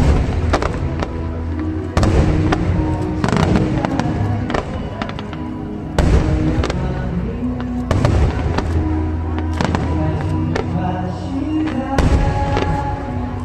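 Aerial fireworks going off in many sharp bangs, one after another, over music playing.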